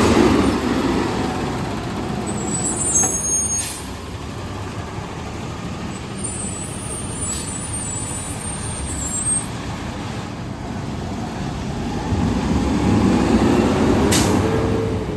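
Garbage truck running close by. The engine swells and its pitch rises at the start and again near the end. In between come short stretches of high-pitched brake squeal and a few sharp air hisses.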